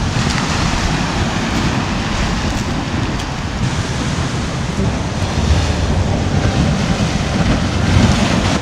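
Atlantic Ocean surf washing in steadily, with wind buffeting the microphone.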